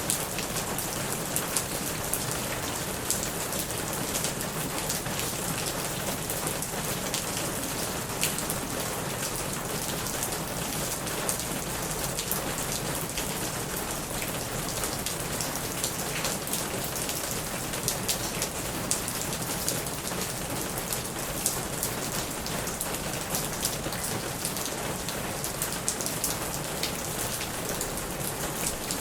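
Steady heavy rain drumming on a plastic roof, with many individual drops striking as sharp ticks over a continuous hiss.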